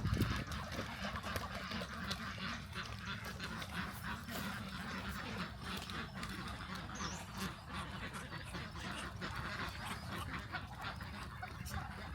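A flock of Muscovy ducks calling steadily, mixed with many small clicks and rustles.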